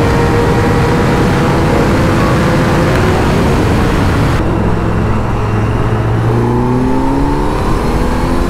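Kawasaki Z900's inline-four engine running hard at high speed under heavy rushing wind noise. About four and a half seconds in the wind noise drops and the engine climbs steadily in pitch as the bike accelerates.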